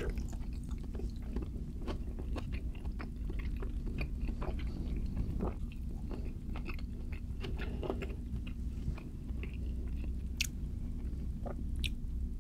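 A person chewing food close to the microphone: irregular wet mouth smacks and clicks of biting and chewing, over a steady low hum.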